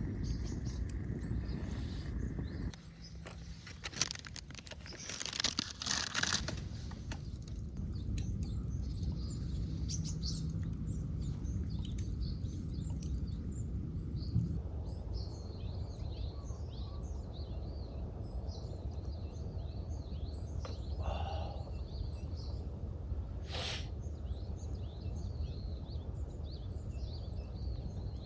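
Small birds chirping repeatedly over a steady low outdoor rumble, with a few clicks and a rustle in the first several seconds and one short sharp sound about three quarters of the way through.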